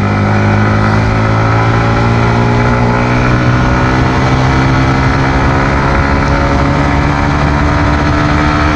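Yamaha MT-15 V2's single-cylinder engine running steadily under way through its stock exhaust, its pitch nearly level and creeping up slightly near the end.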